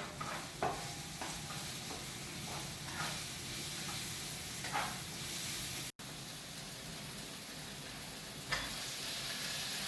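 Chopped onions and garlic sizzling steadily as they fry in a pan until translucent, with a few short scrapes of a spoon stirring them. The sound drops out for an instant about six seconds in.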